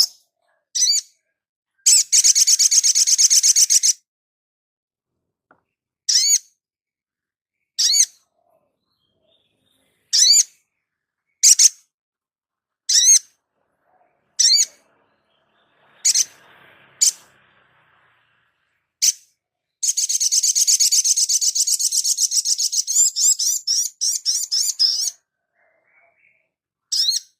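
Birds of the sunbird family calling: short, sharp, high chirps every second or two, broken by a fast trilling song about two seconds in and a longer trill of about five seconds later on.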